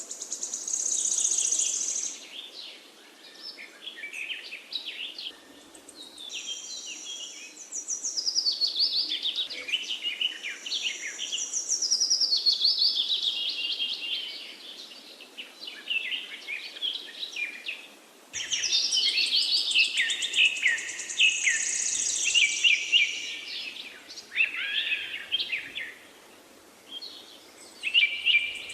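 Birds chirping and calling: runs of many quick, high chirps overlapping one another, broken off abruptly about 18 seconds in and starting again at once.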